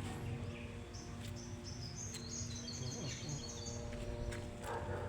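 A small bird chirping: a quick run of high notes about two seconds in, lasting about a second, over a steady low background hum.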